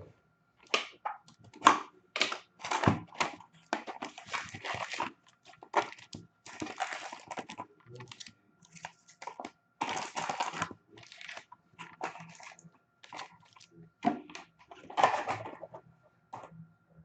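Hockey card packs and wrapping being torn open and the cards handled and shuffled. The sound is an irregular run of crinkling, tearing and quick clicks and rustles, with a few louder rips near the middle and toward the end.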